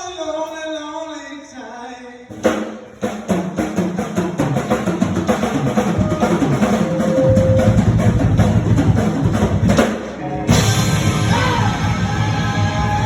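Live rock-and-roll band. A held note fades away, then the drum kit comes in hard about two and a half seconds in with a run of fast hits. The full band comes back in near the end.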